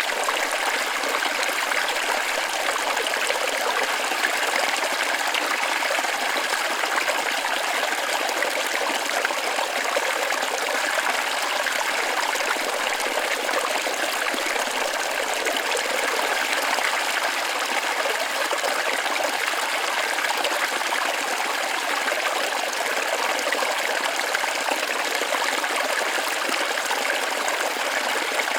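Waterfall: water running and splashing in a steady, unbroken rush.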